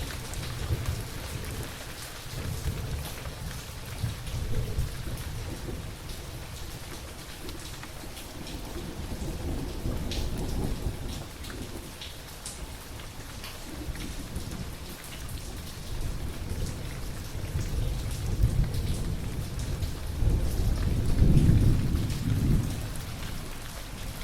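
Steady rain falling, with scattered drops ticking, under thunder rumbling low in rolling swells that grow loudest near the end.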